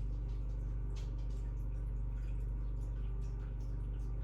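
Steady low hum with a few faint clicks and taps over it.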